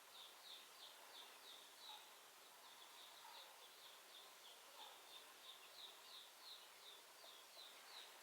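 Faint, steady series of short high chirps, about three a second, from a small animal, over faint outdoor hiss.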